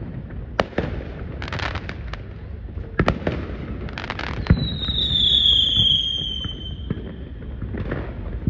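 Distant fireworks display: sharp bangs of shells bursting, several of them, with stretches of crackling. About halfway through a long high whistle rises over them and slowly falls in pitch for about two seconds.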